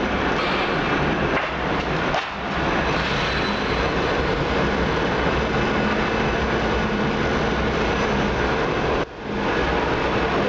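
Steady, loud mechanical running noise of charcoal-making machinery, briefly dropping away twice, about two seconds and about nine seconds in.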